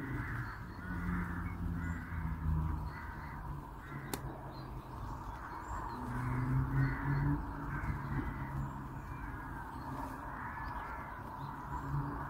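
Birds calling repeatedly, short harsh calls following one another throughout, with a low hum coming and going underneath.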